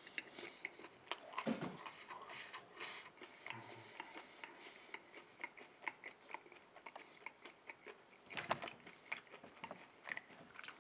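A man chewing a bite of thin-crust pizza with his mouth closed: faint, irregular small wet clicks and smacks, two of them a little louder.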